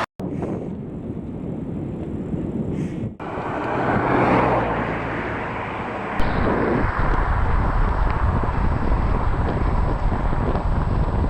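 Wind rushing over the microphone with a low rumble underneath, changing abruptly about three and six seconds in.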